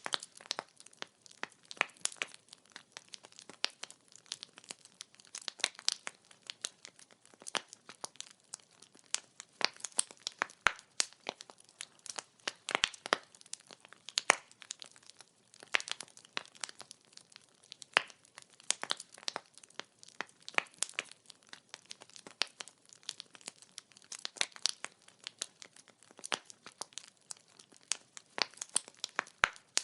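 Wood fire burning, its logs crackling and popping in quick, irregular snaps over a soft hiss.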